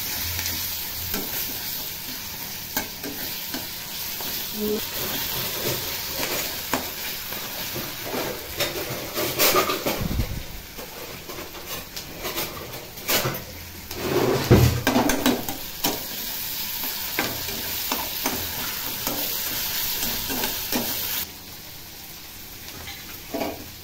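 Onions and fish frying in oil: a steady sizzle, with a metal spatula scraping and knocking against the pan as the food is stirred. There are a few louder knocks about ten and fourteen seconds in, and the sizzle turns quieter near the end.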